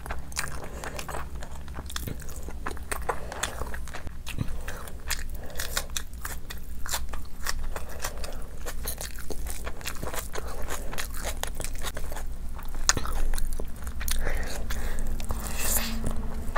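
A person chewing and biting curry-soaked meat and rice eaten by hand, with frequent short, sharp mouth clicks.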